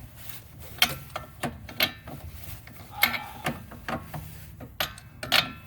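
Ratchet wrench clicking in short strokes, with sharp metallic clinks that ring briefly, as the lower strut-to-knuckle bolt is run out.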